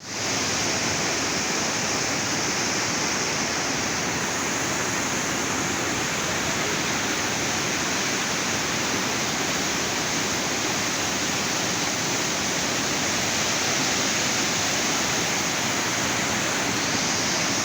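A mountain river in flood after a cloudburst: swollen, fast water rushing steadily without a break.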